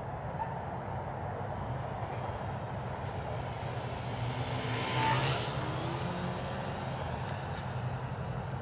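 A small battery-powered remote-controlled aircraft flying past low and close. Its sound swells about five seconds in and its pitch drops as it goes by, over a steady low background rumble.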